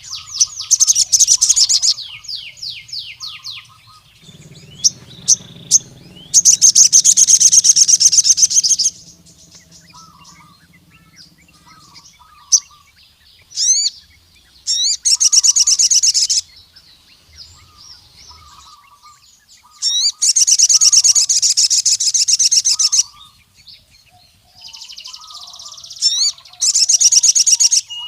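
Male sogon (crimson sunbird) singing: loud, very fast high trills lasting two to three seconds, five times, with softer short chirps and quick whistled sweeps between them. This is the full song used to call out a rival male.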